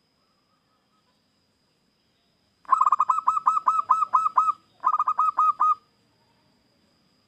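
Zebra dove cooing: a fast run of about nine clipped coos a few seconds in, then after a brief pause a shorter run of about five.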